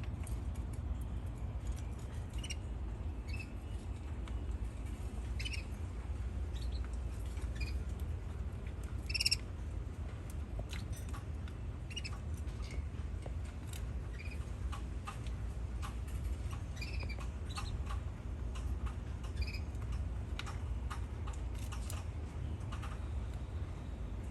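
Canaries giving scattered short chirps and call notes, with small clicks in between, over a steady low hum. The loudest chirp comes about nine seconds in.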